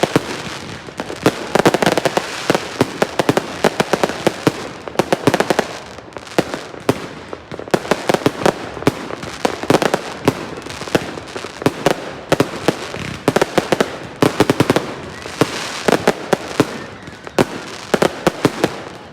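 Fireworks going off continuously: a dense, irregular run of sharp bangs and cracks over steady crackling.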